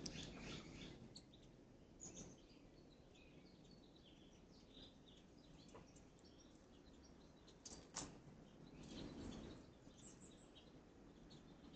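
Faint, scattered bird chirps over quiet outdoor background noise, with a single sharp click about eight seconds in.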